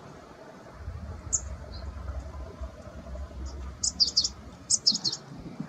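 Small wild songbird calling: short, high, downward-slurred chirps, first singly, then in quick clusters of three or four about four and five seconds in. A low rumble sits underneath during the first half.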